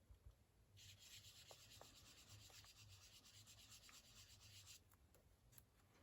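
Faint, rapid rubbing of an ink blending tool worked over cardstock, blending and softening the ink. It starts about a second in and stops shortly before the five-second mark.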